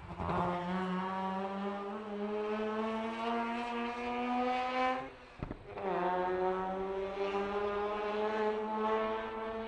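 Rally car engine accelerating away, its pitch climbing slowly through one gear, then a short break with a pop at an upshift about five seconds in, and the pitch climbing again in the next gear.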